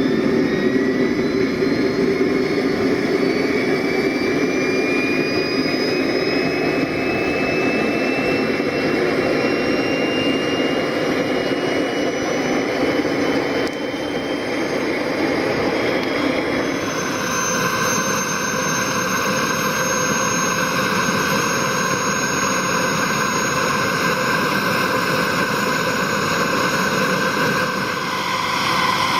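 Jet engine running with a whine that rises slowly in pitch, then about seventeen seconds in changes abruptly to a steady, higher whine.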